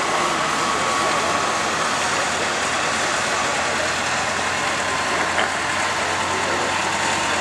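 John Deere 830 two-cylinder diesel tractor engine running steadily.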